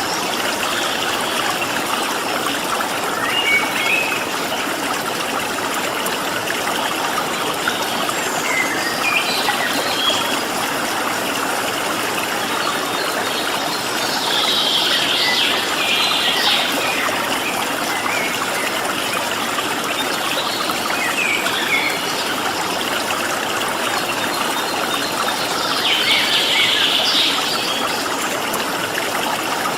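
Stream water running steadily, with small birds chirping over it and two spells of busier chattering song, one about halfway through and one near the end.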